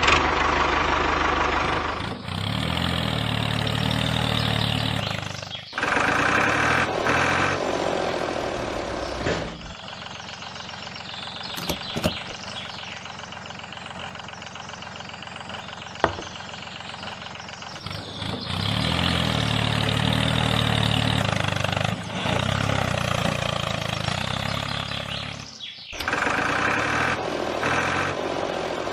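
Motor or engine running, heard in several segments that break off abruptly, with a quieter stretch through the middle broken by a few brief clicks.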